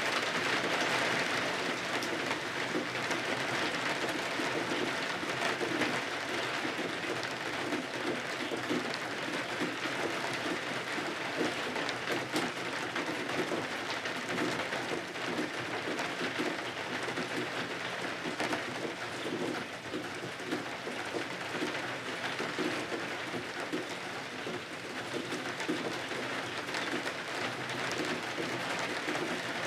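Steady rain falling and pattering on windows and roof, an even hiss with no letup.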